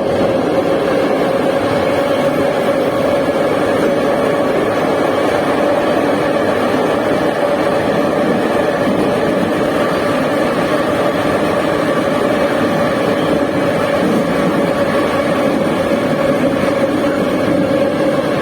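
Metro train running at speed between stations, heard from inside the carriage: a steady roar of wheels on rails with a constant tonal hum throughout.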